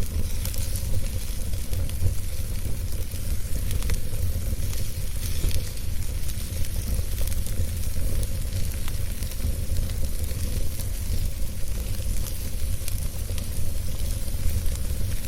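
Wood fire burning steadily, with a low rumble under a constant hiss and frequent sharp crackles and pops.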